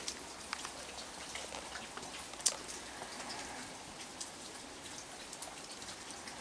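Heavy rain falling steadily, with many scattered drops ticking close by and one sharper tick about two and a half seconds in.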